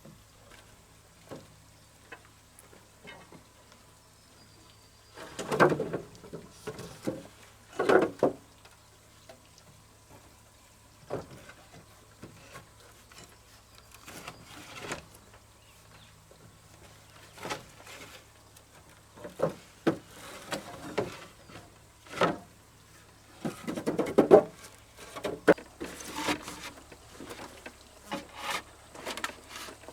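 Scattered knocks, scrapes and clatter of manual work, irregular and unrhythmic, with a few louder bursts of rattling, over a faint steady low hum.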